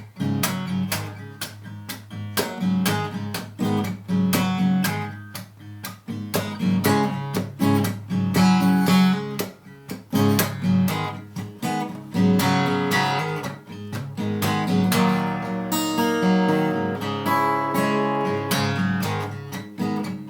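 Acoustic guitar playing a blues intro, picked notes and strums in a steady rhythm.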